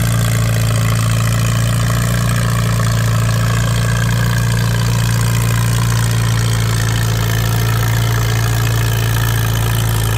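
Antique tractor engine idling steadily at a constant speed.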